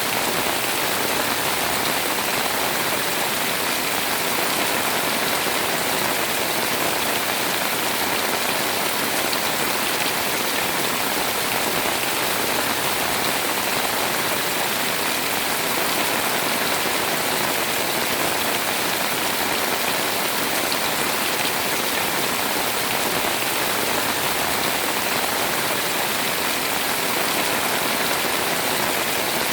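Heavy rain pouring steadily on a house, an even hiss of drops that never lets up.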